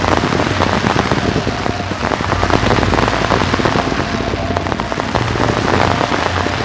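Aerial fireworks display at close range: a dense, unbroken crackle of many small bursts going off in quick succession.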